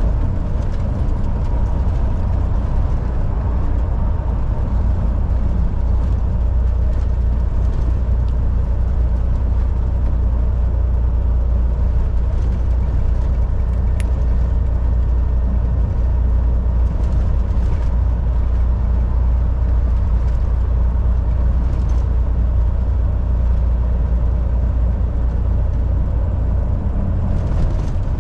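Volvo VNL 760 semi truck running steadily at highway speed: a deep, even engine drone mixed with road noise. There is a single faint click about halfway through.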